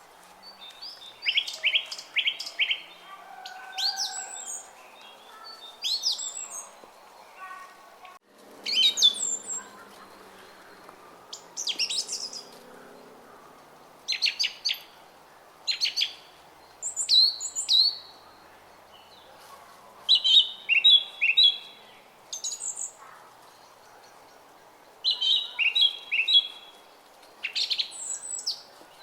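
Songbirds chirping and singing in short, repeated phrases every second or two, some of them quick runs of three or four notes, over a faint steady murmur of a brook.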